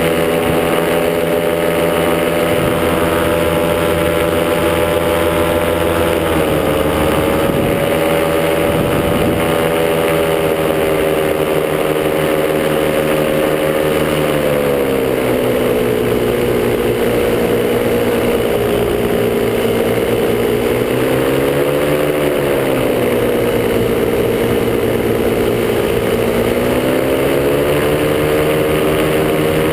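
Top80 two-stroke paramotor engine running in flight, its pitch shifting with the throttle: it drops a little about a fifth of the way in, drops further about halfway, rises briefly and then climbs again near the end.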